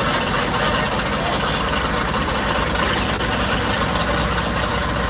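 Drag-race car engines running steadily at the starting line of the strip, heard at a distance as a constant low rumble under a hiss.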